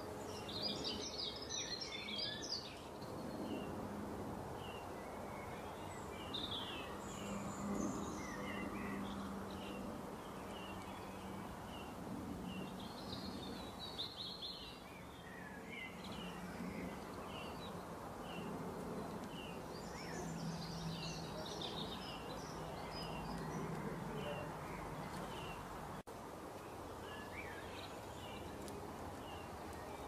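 Wild birds chirping and calling over outdoor background noise: short chirps repeat throughout, with a few busier bursts of song near the start, in the middle and about two-thirds of the way through. A faint low steady hum runs beneath until near the end.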